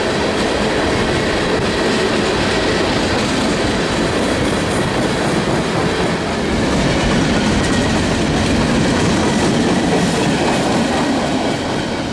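A train rolling past at close range: a loud, steady noise of wheels running on the rails.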